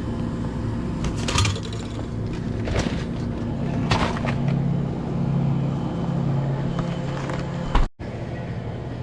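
A vehicle's engine hums steadily with road noise while driving, heard from inside the cab, with a few short knocks or rattles. The sound drops out for a moment near the end.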